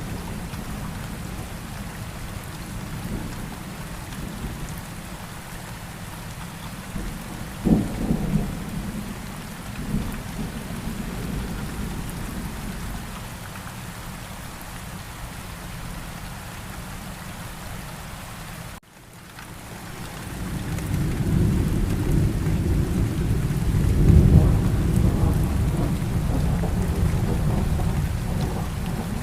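Steady rain falling with thunder: a sharp low crack about a quarter of the way in, then a long rolling rumble that swells and peaks in the second half. The audio cuts out for an instant just before the rumble begins.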